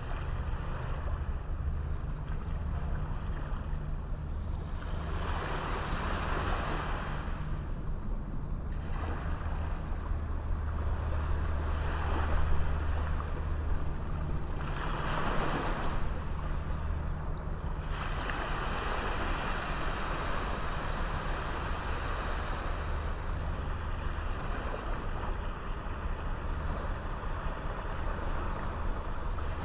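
Small sea waves breaking and washing up a beach, the surf swelling in several surges, over a steady low rumble of wind on the microphone.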